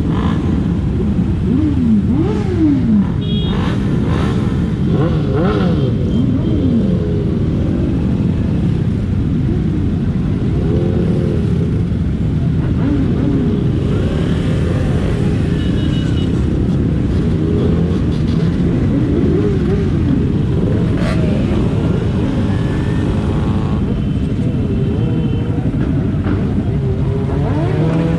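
Several motorcycle engines running together, revving up and down again and again over a constant low rumble and wind noise.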